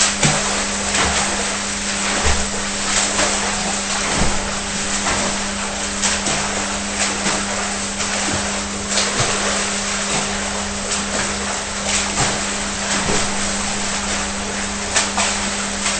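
A steady motor hum over a broad rushing hiss, with frequent short gusts or knocks.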